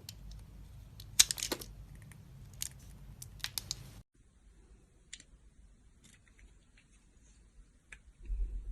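Knife cutting and scraping into a bar of soap: a run of crisp clicks and scrapes, then an abrupt drop to a much quieter stretch with a few faint clicks.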